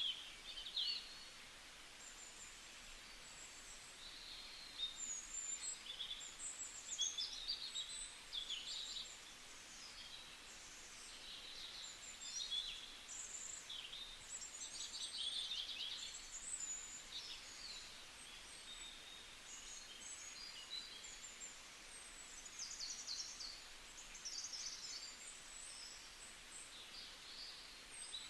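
Several birds chirping and singing at once, overlapping high-pitched calls with quick trills, over a faint steady background hiss.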